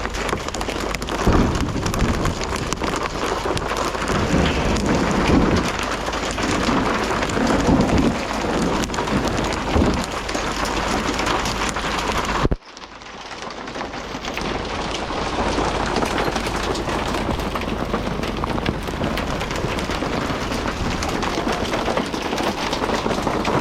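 Heavy rain pouring down, with uneven low rumbles through the first half. The sound drops out abruptly about halfway, then the rain picks up again.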